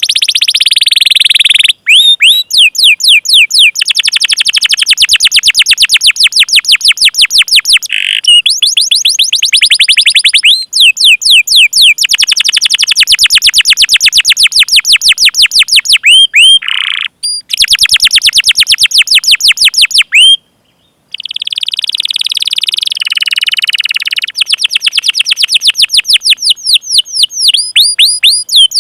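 Domestic canary singing: long runs of rapid, evenly repeated chirps (cuit-cuit) alternating with rolling trills, broken by short pauses and one brief silence about two-thirds of the way through.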